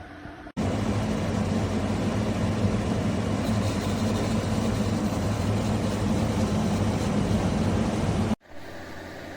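Bosch Cool 2000 portable air conditioner running: a steady rush of air with a low hum underneath. It starts abruptly about half a second in and cuts off abruptly near the end.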